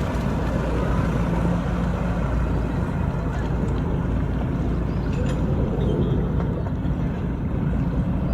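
Engine running steadily at idle, a low even drone with no revving.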